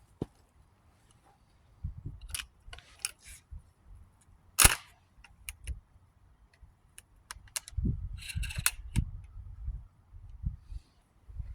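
12-gauge shotgun being loaded by hand: a run of sharp metallic clicks and clacks as shells go in and the action is worked, the loudest clack about four and a half seconds in, with rustling handling noise in between.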